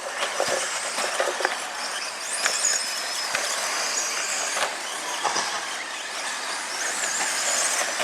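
Radio-controlled stadium trucks racing around a dirt track. High-pitched motor whines rise and fall as they accelerate and brake, over a steady rush of noise, with a few sharp knocks from landings or contact.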